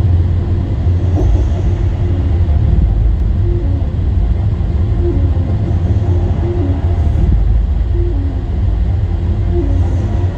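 Steady low rumble or hum, with faint short tones stepping up and down in the middle range.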